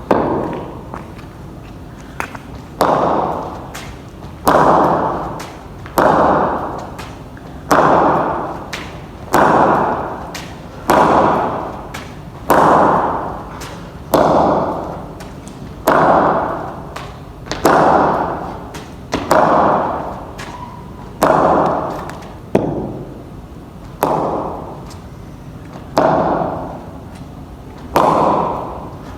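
Cricket bat striking a hard ball in practice, shot after shot, one crisp crack about every second and a half, each ringing briefly before it fades.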